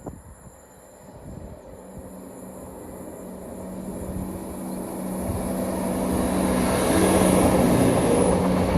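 ScotRail Class 170 Turbostar diesel multiple unit approaching and running past, growing steadily louder over several seconds, with a steady low engine hum under the rush of the train.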